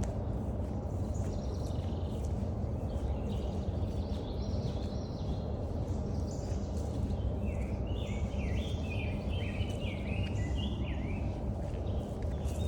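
Steady low rumble of walking along a forest trail, with songbirds singing over it. From about halfway through, one bird gives a rapid run of short high notes lasting about three seconds.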